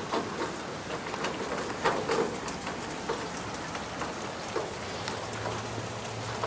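Steady rain falling and splashing on surfaces, with scattered louder individual drips: the trailing rain just behind a fast-moving squall line.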